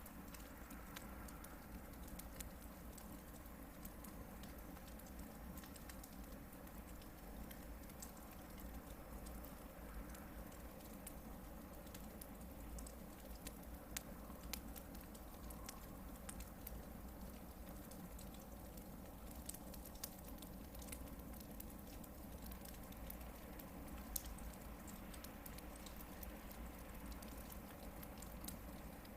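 Hardwood campfire burning, with a steady low rumble and many small scattered crackles. A few sharper pops stand out now and then.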